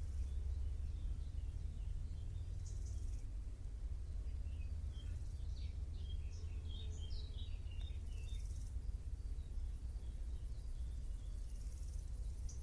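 Small birds chirping in a cluster of quick high notes in the middle, while an insect chirrs in short, very high bursts every few seconds, over a low steady rumble.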